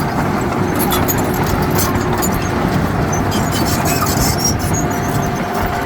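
Heavy diesel earthmoving machinery running steadily under load, a dense low rumble with a faint whine and scattered light clicks over it.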